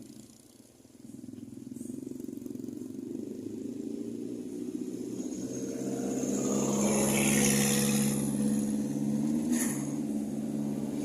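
Vehicle engine running steadily and growing louder over the first several seconds, with a burst of hiss about seven seconds in and a sharp click near the end.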